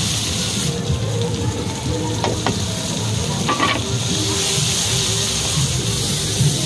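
Crab pieces with onion and tomato sizzling in oil in an iron kadai while a wooden spatula stirs and scrapes through them. A few sharper scrapes come about two to three and a half seconds in, over a steady low rumble.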